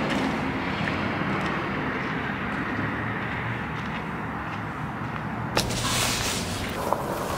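Steady low outdoor rumble, with a sudden knock about five and a half seconds in followed by a moment of rustling.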